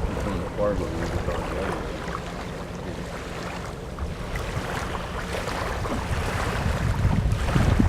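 Wind buffeting the microphone: a steady low rumble with no clear rhythm.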